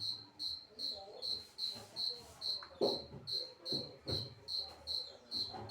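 A cricket chirping steadily, a short high chirp about twice a second. A couple of knocks come about three and four seconds in.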